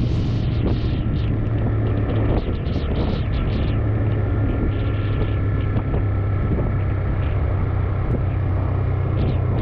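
A TVS Raider 125's single-cylinder engine running at a steady cruising speed, heard from the rider's position. Wind rushes over the microphone in gusts, more in the first few seconds.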